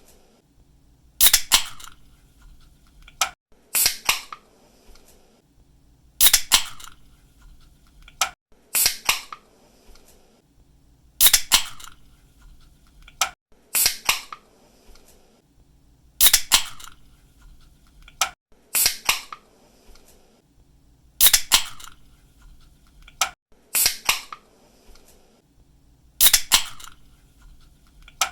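Aluminium drink can being opened again and again, about once every two and a half seconds. Each opening is a click of the pull tab, then a sharp crack and a short hiss of carbonation escaping.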